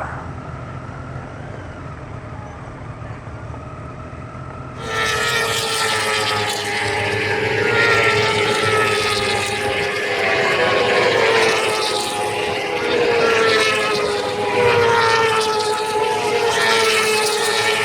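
A field of MotoGP racing bikes launching off the start: about five seconds in, a steady hum gives way suddenly to the loud wail of many high-revving engines. Their pitch sinks slowly as the pack pulls away.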